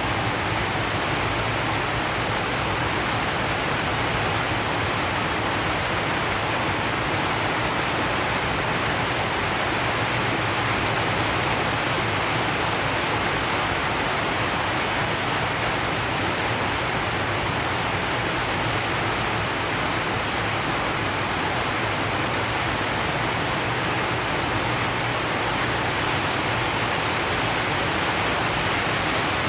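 Steady rain on a zinc sheet roof: a dense, even hiss with no let-up.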